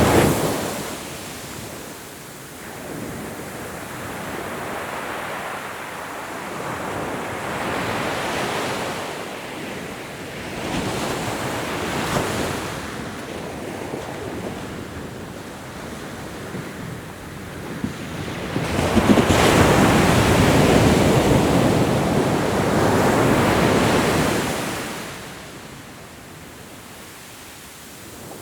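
Ocean waves breaking and washing ashore in repeated surges that swell and fade. Smaller surges come near the start and around 8 and 12 seconds in. The loudest comes about two-thirds of the way through and lasts several seconds before dying away.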